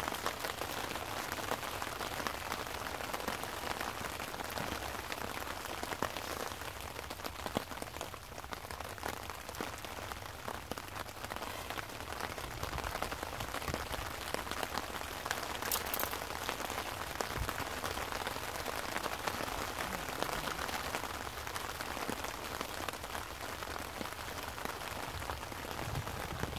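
Steady rain falling, an even hiss dotted with many small taps of individual drops.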